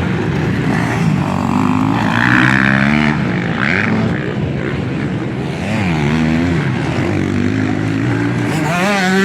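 Several motocross bikes racing, their engines revving up and falling away again and again through gear changes. Near the end one bike revs up loudly close by.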